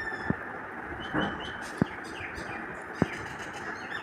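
Small birds chirping in short high calls, with three sharp clicks spaced a little over a second apart over a steady background hiss.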